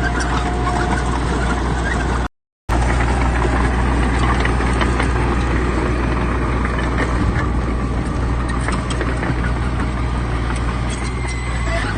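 Heavy diesel engines of earthmoving machines running steadily, a deep drone with scattered light knocks. The sound drops out completely for a split second about two seconds in.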